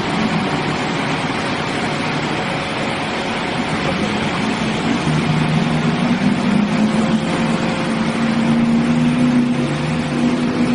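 Vehicle engine running steadily under a rushing noise, its note climbing a little about five seconds in and holding there.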